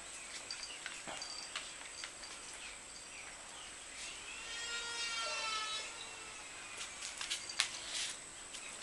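A dog whines once, a single high whine of about two seconds beginning about four seconds in, with light clicks and taps around it.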